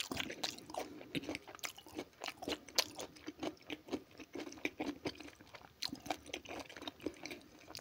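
A man chewing a mouthful of food: a run of short, irregular mouth clicks, several a second.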